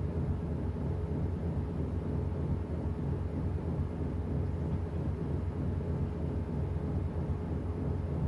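Washing machine running mid-cycle: a steady low rumble of the motor and the turning drum.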